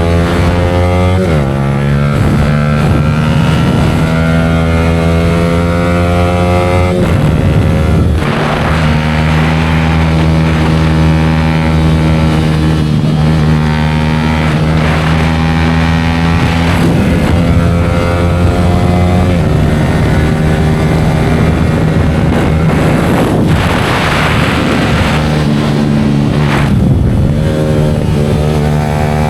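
Yamaha R15 V4's single-cylinder engine with an aftermarket Leo Vince exhaust, running loud and steady while riding. Its note holds a steady pitch for a few seconds at a time, breaking off and changing pitch several times.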